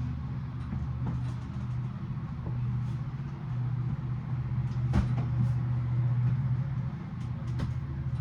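Steady low hum with scattered light clicks of handling and one sharper knock about five seconds in.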